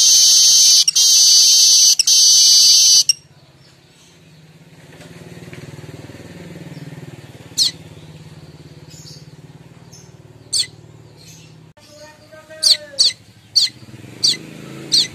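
Streaked weaver (manyar) giving a loud, buzzy, sizzling chatter for about three seconds, which then breaks off. It is followed by a series of short, sharp, falling chirps, coming faster near the end, over a faint low rumble.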